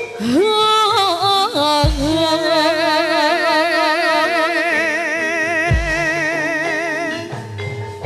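Javanese traditional music: a high melodic line, sung or played on a reed pipe, slides up and then holds one long wavering note for about five seconds over steady held tones, with deep drum strokes about two and six seconds in.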